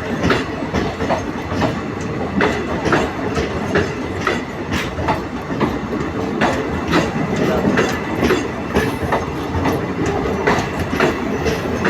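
Train moving along the track: a steady rumble with repeated sharp clacks of the wheels over rail joints.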